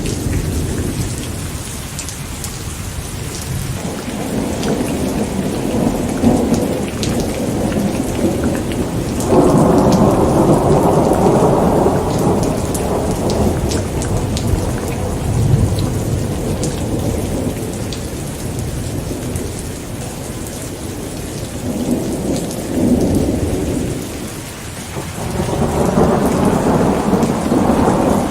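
Thunderstorm: steady heavy rain with scattered drop ticks, and rolling thunder rumbling in long swells, strongest about a third of the way in and building again near the end.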